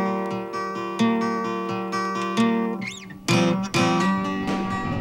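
Acoustic guitar music: plucked chords that change about once a second, with a short break a little under three seconds in.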